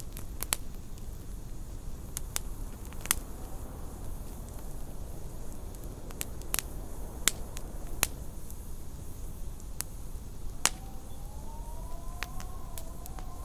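Wood fire crackling in a fireplace, with sharp pops every second or so over a low steady rumble. About ten and a half seconds in, a faint howl of wind joins, rising and then holding steady.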